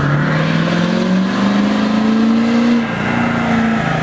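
A truck's engine accelerating: its pitch rises steadily for nearly three seconds, then drops suddenly and holds briefly before falling again near the end.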